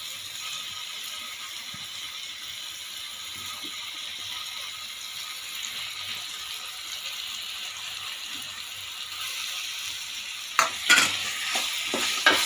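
Tomato and spice masala frying in a steel pot with a steady high sizzle. From about ten and a half seconds in, a wooden spoon stirs and scrapes against the pot, with quick, louder knocks.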